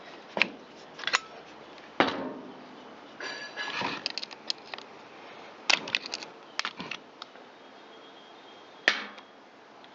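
Scattered sharp clicks and knocks of hands and tools working on a Stihl MS193T chainsaw under teardown, the loudest about two seconds in and again near the end, with a short scratchy run of clicks about three to four seconds in.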